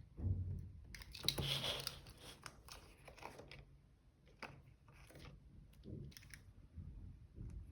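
Paper and stationery being handled for journal decorating: a rustle of paper about a second in, followed by scattered small taps and clicks.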